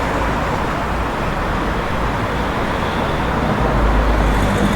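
Street traffic noise: a steady rumble of passing road vehicles, growing a little louder near the end.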